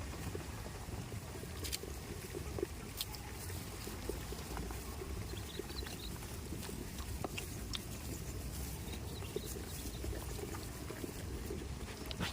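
Goats moving about in a farmyard: scattered short clicks and rustles over a steady low rumble.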